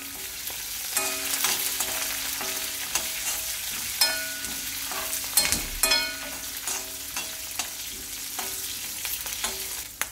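Tempering of chillies, curry leaves, garlic and ginger sizzling in hot oil in an aluminium kadai, stirred with a steel spoon that clicks against the pan a few times, loudest about four to six seconds in.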